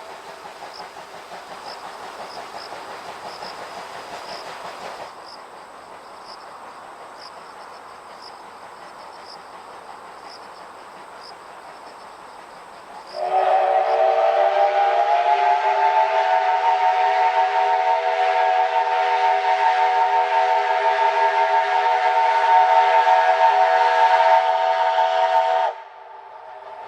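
Whistle of a C57 steam locomotive: one long blast of about twelve seconds starting about halfway in, a chord of several tones that slides up a little at its onset, then holds steady and cuts off sharply. Before it, a steady hiss with faint regular ticking.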